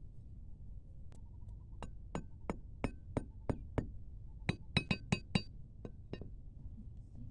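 A series of about fourteen sharp, clinking taps with a brief ring, irregularly spaced and quickening to a rapid run a little past the middle, like a hard tool striking repeatedly.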